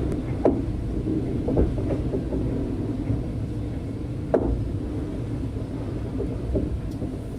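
Locomotive-hauled V/Line passenger train running along the track: a steady low rumble with a few short knocks, the sharpest about four seconds in.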